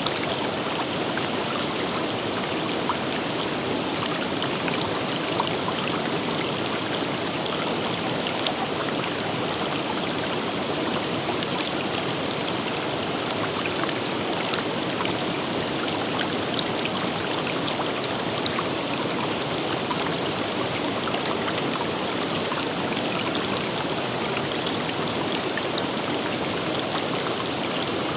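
River water running steadily over rocks, a continuous rushing with small splashes and droplet ticks.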